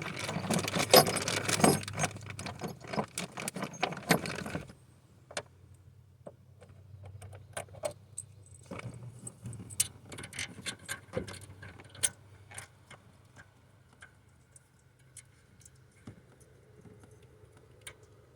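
Small metal parts jingling and clinking as they are handled, a dense rattle for the first four or five seconds, then scattered separate clicks and taps.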